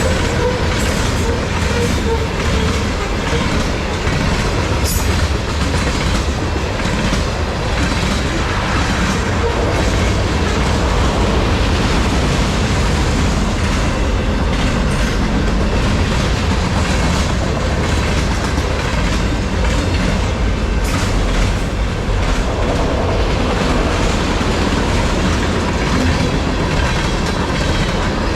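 A long freight train's cars rolling past at speed: a steady deep rumble of wheels on rail, with the clickety-clack of wheels over rail joints.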